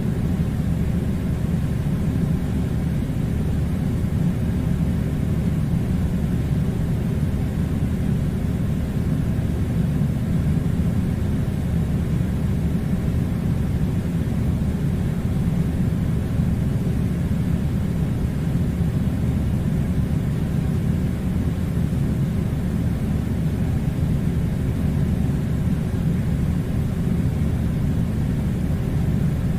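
Air conditioner running: a steady low rumbling hum that does not change.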